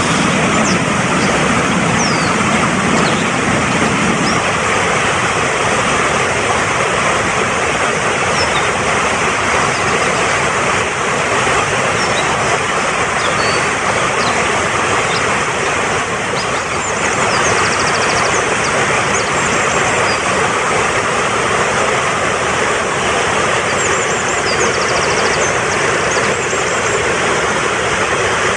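Fast-flowing mountain stream rushing steadily, with faint bird chirps now and then, in small clusters around the middle and again near the end.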